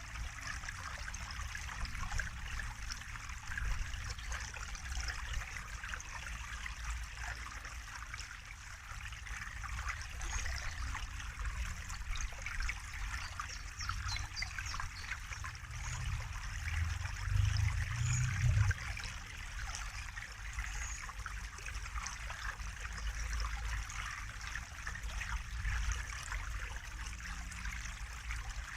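Running water trickling and babbling steadily, a continuous mix of small splashes. A low rumble swells briefly a little past halfway.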